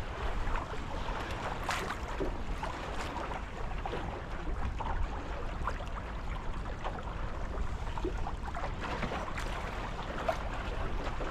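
Water splashing and gurgling along the hulls of a Tornado racing catamaran sailing in light wind, with many small irregular splashes and a steady low wind rumble on the microphone.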